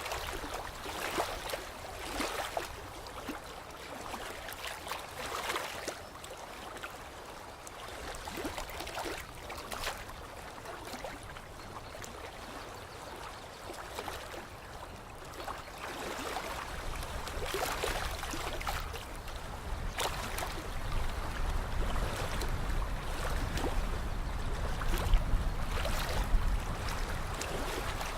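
Lake water lapping and splashing gently at the shore, in irregular small splashes every second or so. A low rumble grows in the second half.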